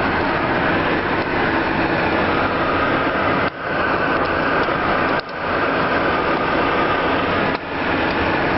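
Cessna Citation CJ2+ twin turbofan engines running, a loud steady rush with a faint whine in it, dipping briefly in level three times.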